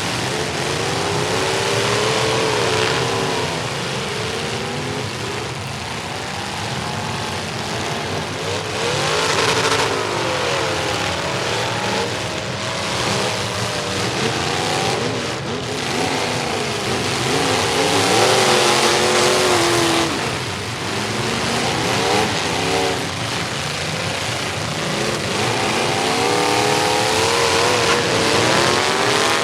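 Several demolition derby trucks' engines revving and running at once, their pitch repeatedly rising and falling as they accelerate and back off, over a constant noisy roar.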